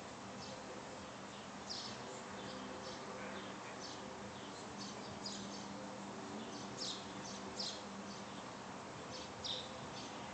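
Birds chirping: short, high chirps at irregular intervals, over a faint steady hum.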